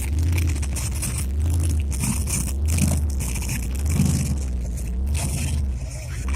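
A steady low rumble overlaid with irregular scraping and rustling noises.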